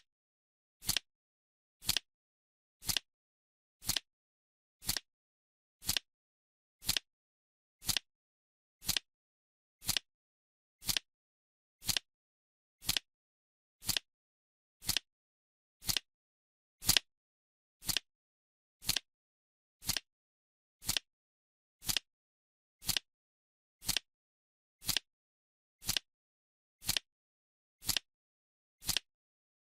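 Clock-style timer ticking once a second: short, sharp, evenly spaced ticks with silence between.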